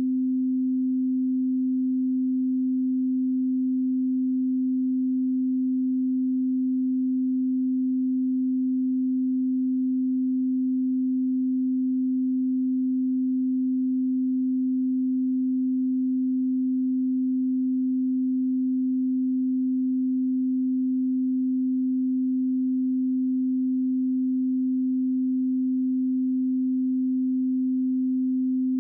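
A steady 258 Hz pure sine tone: an audio calibration test signal, one unchanging low hum with no overtones.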